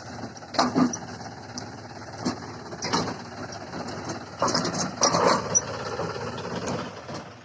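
John Deere 5050D tractor's diesel engine running, with uneven louder bursts near the start and again from about four and a half to five and a half seconds in.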